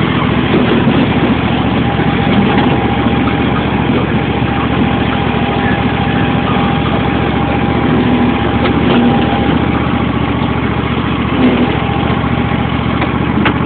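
John Deere L111 lawn tractor's 20 hp Briggs & Stratton V-twin running steadily, with a thin steady whine above the engine note through the middle.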